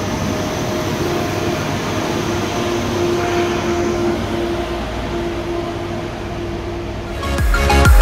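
ICE T electric multiple unit pulling out of the station, its traction equipment giving a steady electric whine over the rolling of the wheels on the rails. About seven seconds in, loud electronic dance music cuts in and takes over.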